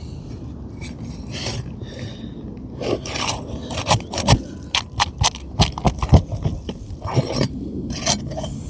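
A pry tool scraping under asphalt roof shingles as roofing nails are worked loose: a low scraping for the first few seconds, then a run of sharp clicks and knocks.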